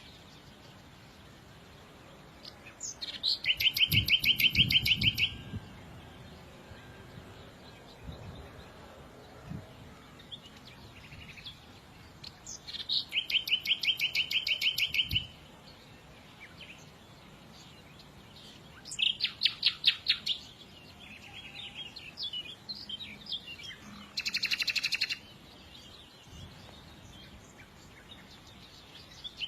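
A songbird singing loud, fast trilled phrases of rapidly repeated notes, four phrases with pauses and softer chirps between them.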